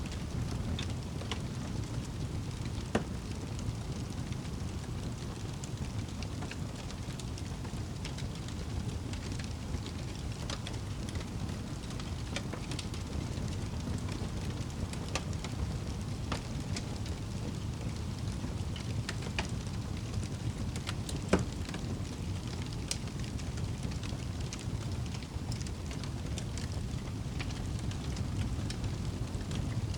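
Fire in a fireplace crackling: a steady low rumble of flames with scattered small snaps and pops, and two louder sharp pops, about three seconds in and about two-thirds of the way through.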